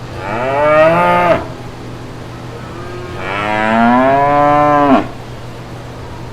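A cow mooing twice: a short moo, then a longer one whose pitch rises and then drops as it cuts off.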